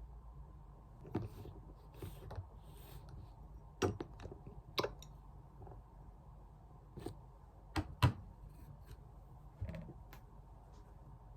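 Small objects being handled at close range: scattered light clicks and taps with a few soft rustles, and a pair of sharper knocks about eight seconds in.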